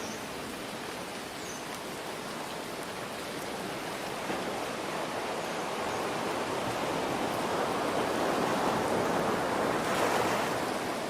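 Steady hiss of rain mixed with ocean surf; a wave swells over several seconds, loudest near the end, then eases.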